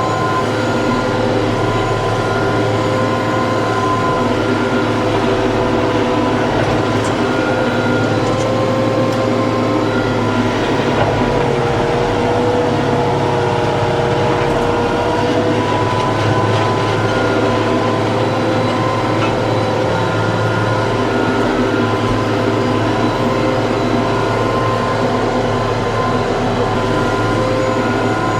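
TYM T654 tractor running steadily under work, a droning machine sound with several steady tones whose pitch sags a little about eleven seconds in and then recovers.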